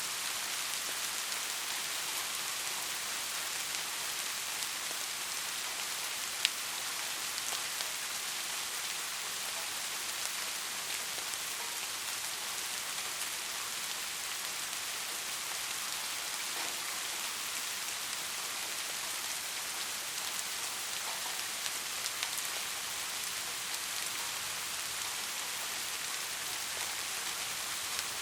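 Steady rain, an even hiss with scattered drop ticks, one sharper tick about six and a half seconds in.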